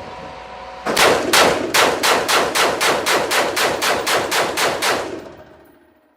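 GLFA GL15 AR pistol with a 7.5-inch barrel fired in rapid semi-automatic fire: about fifteen sharp, loud shots at roughly four a second, starting about a second in, with the echo dying away after the last shot.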